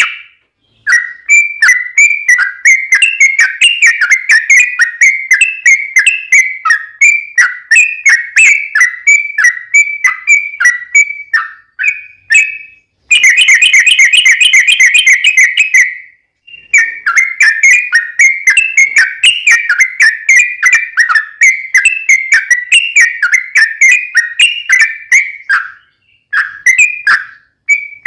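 Yellow-vented bulbul (trucukan) singing long runs of quick, bubbly chattering notes, several a second. About halfway through comes a faster, denser trill lasting about three seconds, and the song breaks off briefly a few times.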